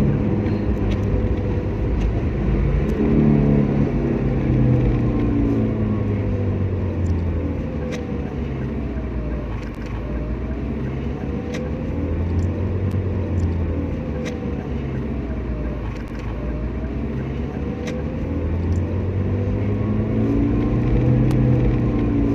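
Car driving, its engine and road rumble steady, with the engine note rising and falling several times as the vehicle speeds up and eases off.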